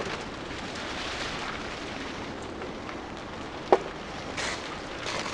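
Steady patter of rain on a polytunnel's plastic cover, with two sharp clicks, one at the start and one a little under four seconds in.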